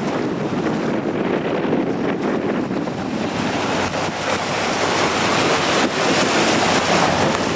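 Strong wind buffeting the microphone: a steady rushing noise that grows a little louder in the second half.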